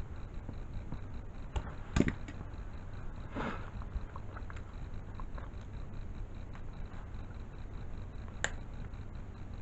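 Scattered clicks and knocks of small objects being handled, the loudest about two seconds in, with a short rustle a second later, over a low steady hum.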